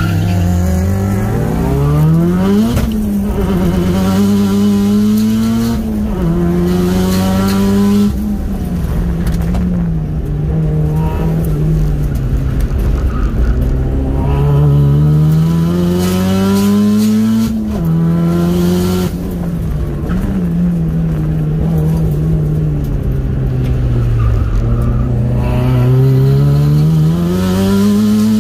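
Turbocharged Mitsubishi 4G15 MIVEC four-cylinder engine being driven hard. It revs up for a few seconds at a time and drops sharply, over and over, as it accelerates, shifts and lifts off the throttle.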